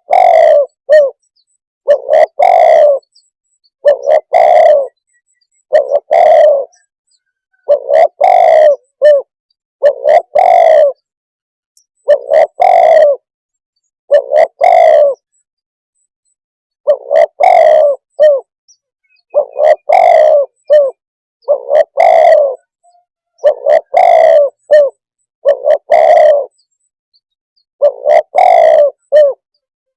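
Spotted dove cooing: a loud, repeated multi-note coo phrase about every two seconds, with one longer pause midway.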